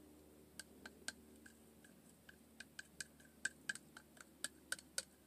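Light, irregular clicks of a utensil tapping and scraping against a small cup while stirring titanium dioxide colourant premixed in oil. The clicks are sparse at first and come faster, several a second, from about halfway.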